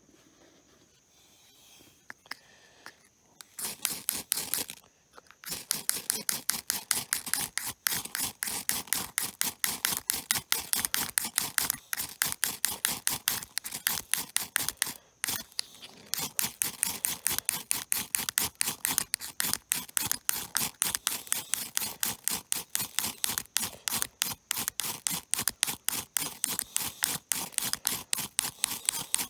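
A long run of sharp, rapid mechanical clicks, several a second, starting a few seconds in and going on with a couple of brief pauses.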